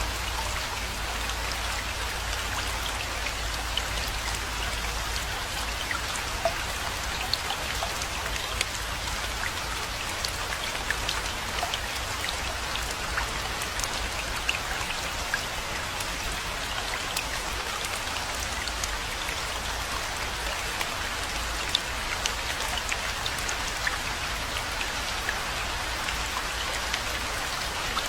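Steady rainfall, an even hiss with scattered sharper ticks of single drops striking, over a steady low rumble.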